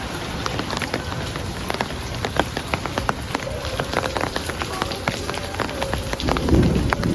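Heavy rain falling steadily, with many sharp separate drop hits. A low rumble of thunder builds near the end.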